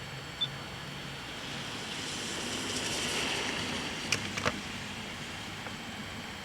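A vehicle passing on a rain-wet road: tyre hiss swells up and fades away over a few seconds. A few sharp clicks follow about four seconds in.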